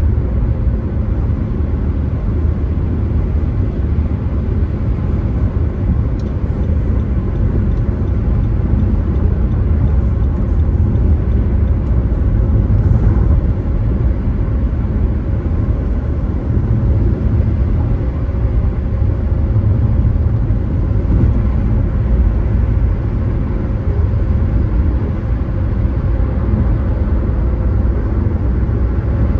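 A car driving along the road: a steady low rumble of tyre and engine noise.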